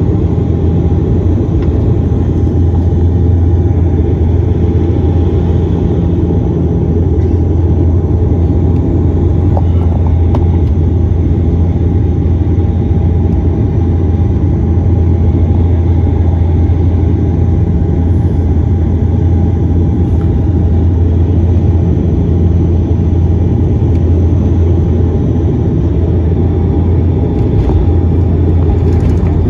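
De Havilland Dash 8 turboprop engines and propellers droning steadily, heard from inside the passenger cabin: a loud, even low hum with a faint steady whine above it.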